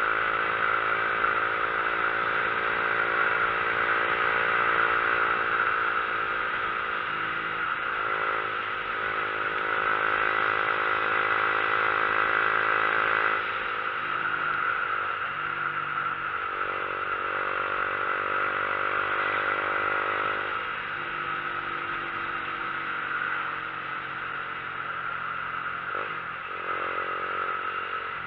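Motorcycle engine running on the road, its pitch dropping and rising several times as throttle and gears change, over a steady rushing noise.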